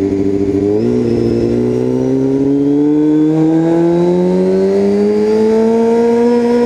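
Motorcycle engine running steadily, then about a second in the revs step up and climb slowly and evenly as the bike accelerates.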